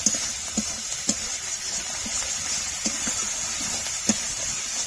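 Onion, tomato, ginger and garlic paste frying in oil in a pan, sizzling steadily while it is stirred to cook off the raw smell of the ginger and garlic. A spatula taps and scrapes against the pan every so often.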